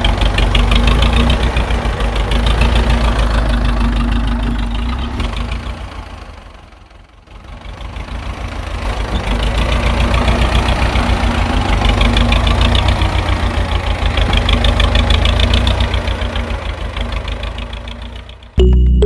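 Mini tractor's small engine running with a rapid knocking beat. The sound fades almost away about seven seconds in, then comes back.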